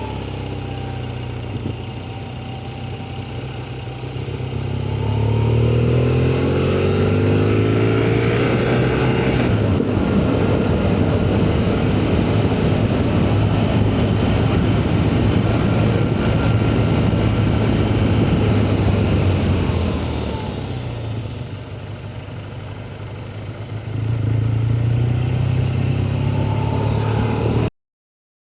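BMW R1200GS flat-twin engine running under way, its note rising in pitch through the gears. It gets louder about five seconds in, eases off after about twenty seconds, picks up again near the end, then cuts off suddenly.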